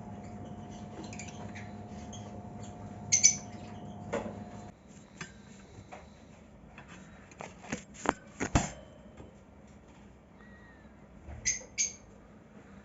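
Lovebirds giving a few short, sharp squawks and chirps, one about three seconds in and two close together near the end. A steady hum stops suddenly about a third of the way in, and a few sharp clicks come a little past the middle.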